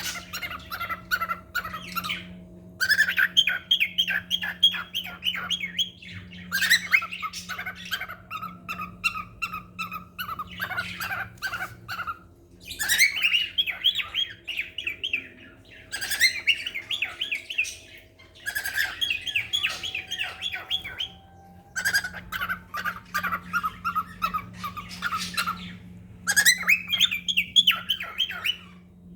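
Pet cockatiels chirping in rapid bouts of a few seconds each, separated by short pauses. A steady low hum runs underneath.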